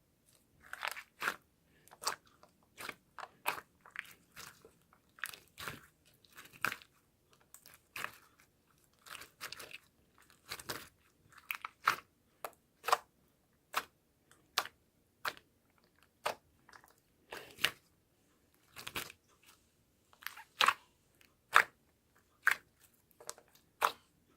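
A series of sharp, irregular crunches and clicks, about one or two a second, some much louder than others, over an otherwise silent background.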